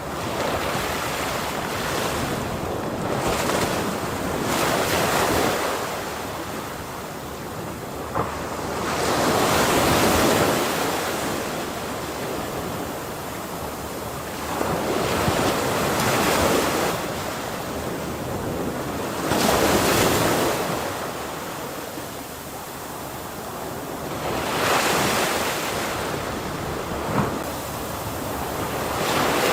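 Ocean waves breaking on a shore, the surf swelling and ebbing in turn, with a louder wave every five seconds or so. Wind noise sits under the surf.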